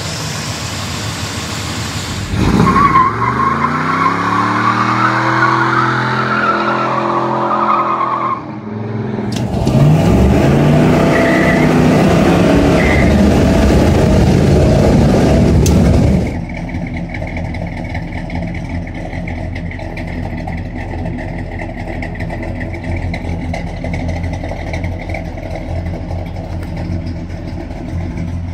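Classic muscle car's engine running steadily, then pulled up twice in rising revving runs of several seconds each, the second one louder and cutting off abruptly, then settling back to a steady lower note.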